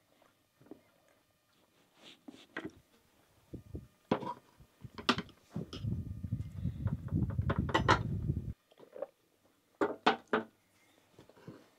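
Cutlery and plates clinking and knocking now and then during a meal, with a few seconds of low rumbling noise in the middle that cuts off suddenly.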